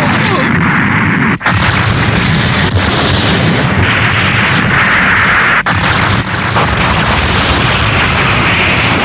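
Cartoon sound effect of a spaceship blowing up: a loud, continuous run of explosions and rumbling, with brief breaks about a second and a half in and near the middle.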